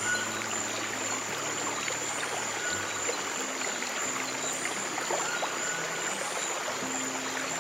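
Stream water running and trickling steadily, with soft, low piano-style music notes held and changing underneath.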